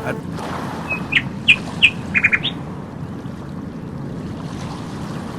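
A small bird chirping: a handful of short, high notes about a second in, including a quick run of three and a final rising note, over a steady low rumble.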